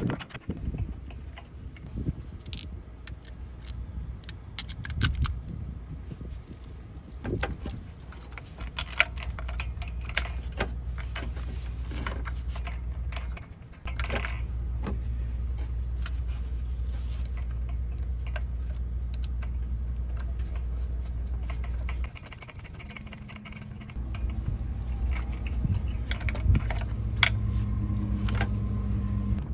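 Metal hand tools (a socket, extension and ratchet) clinking and clicking against each other and the engine while a new spark plug is threaded in and tightened. A steady low hum comes in after several seconds and drops out twice.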